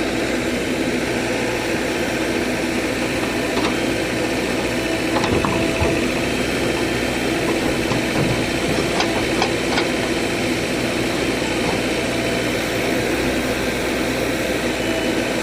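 Heavy diesel engine of a JCB machine running steadily, with a few short metallic clicks about nine to ten seconds in.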